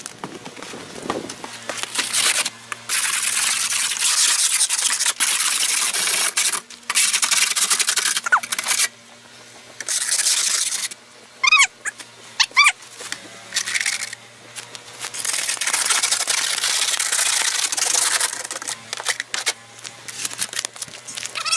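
A brush and scraper sweeping snow off a vehicle: repeated stretches of loud hissing scraping with short pauses between strokes, and a few brief high chirps near the middle.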